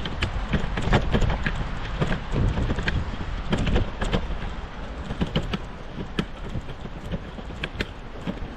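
Wind buffeting the microphone during a bicycle ride, with irregular clicks and rattles from the bike as it rolls over snow.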